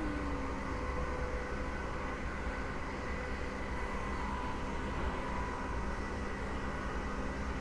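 Train running: a steady low rumble with several steady humming tones over it.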